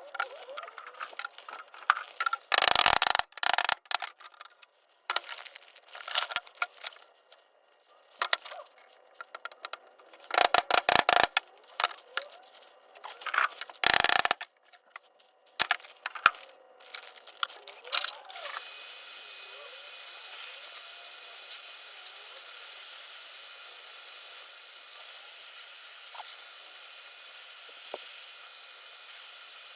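Metal tools clinking and knocking on metal in quick clusters while new bearings are fitted into Honda CR125 crankcases. After about eighteen seconds a steady hiss starts and carries on.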